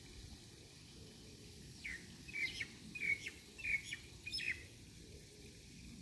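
A bird calling: a quick run of six or seven short, sharp chirps, about two a second, starting about two seconds in and stopping a second or so before the end.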